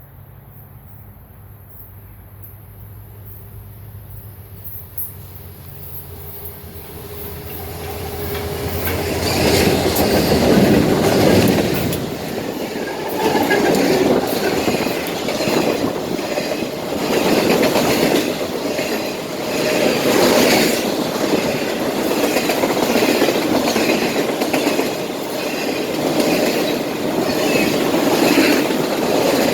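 Five EMD SD40-2 diesel locomotives approach, their engine drone growing louder until they pass about ten seconds in. Then the train's cars roll by with a steady rhythmic clatter of wheels on rail.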